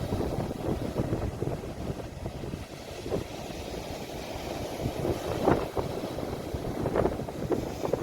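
Sea waves washing on the shore, heard through wind buffeting a phone microphone as a steady low rumble, with a few louder surges of water about three, five and a half and seven seconds in.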